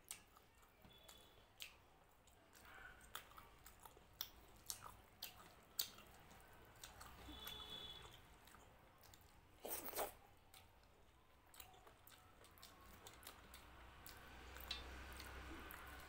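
Quiet close-up eating sounds of a person chewing, with wet mouth smacks and sharp clicks scattered throughout and a slightly louder cluster about ten seconds in. Fingers mix rice and crispy fried potato on a metal plate.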